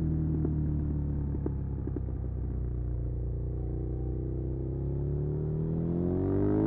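Suzuki SV650's 645 cc V-twin engine on the move. The revs fall steadily for about four seconds as it slows off the throttle, then climb again near the end as it accelerates.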